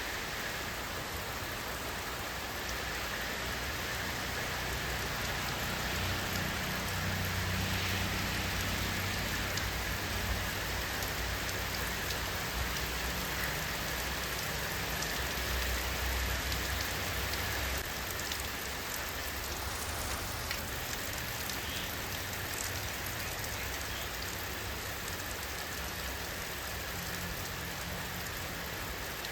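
Steady rain falling, an even hiss of drops on surfaces. A low rumble swells in about six seconds in and fades out by about eighteen seconds.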